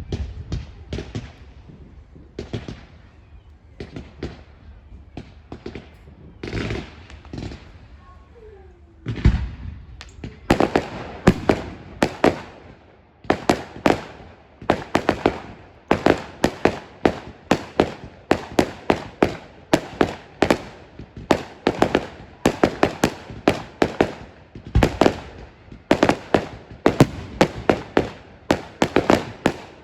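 Fireworks display: scattered bangs for the first ten seconds or so, then a rapid barrage of sharp, loud bangs, several a second.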